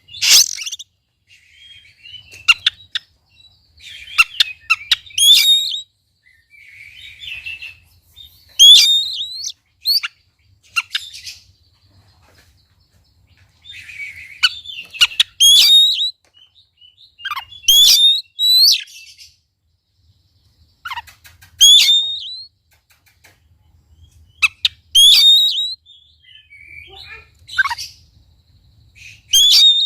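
Oriental magpie-robin singing in full song: loud, repeated short phrases of whistled sweeps and chirps, each about a second long, coming every two to three seconds with brief pauses between them.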